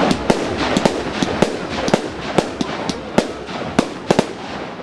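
Fireworks going off in many sharp, irregular bangs and cracks, two or three a second, over a continuous rumble of further explosions.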